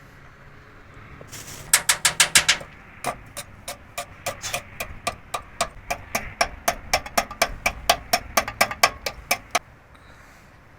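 Hammer striking metal in quick repeated blows, each with a short ringing note: a fast cluster about two seconds in, then steady blows about four a second that stop shortly before the end.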